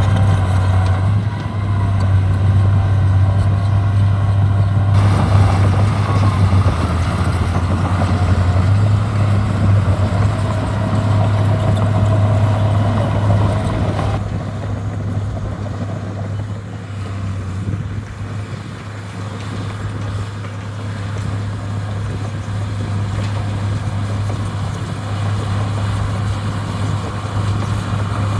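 Heavy diesel earth-moving equipment running, a steady low engine drone throughout, with a faint mid-pitched whine in the middle stretch and the mix shifting about 5 and 14 seconds in.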